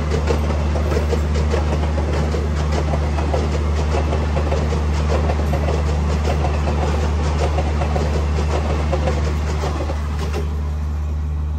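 A passenger express train running along the track, with a steady low rumble and the wheels clattering over rail joints.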